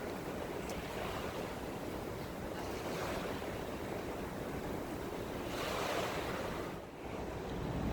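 Wind and small waves washing ashore: a steady rush of surf that swells louder about six seconds in, then briefly drops away near the end.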